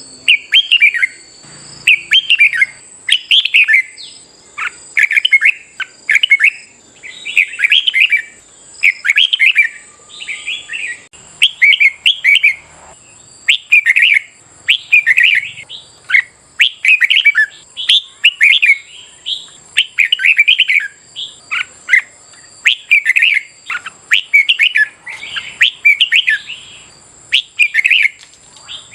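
Red-whiskered bulbul song: loud, chirpy, warbled phrases repeated in quick succession, about one or two a second, in the excited competitive singing used to train and provoke caged bulbuls.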